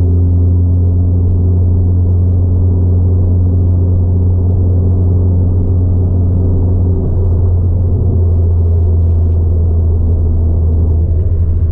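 Ford Fiesta ST180's turbocharged 1.6-litre four-cylinder engine, fitted with a 3-inch aftermarket exhaust, droning at steady revs as heard inside the cabin. The pitch holds almost constant, shifting slightly about seven seconds in.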